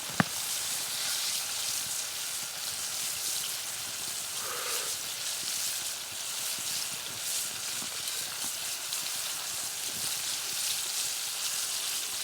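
Fish frying in a pan of oil, a steady sizzle with small crackles.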